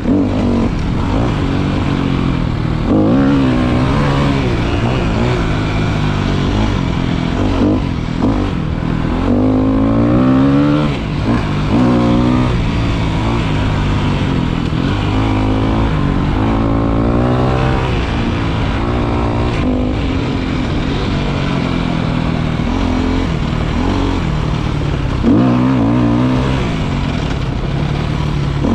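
Motorcycle engine running on a ride, revving up and easing off over and over, with a steady rumble of road and wind noise underneath.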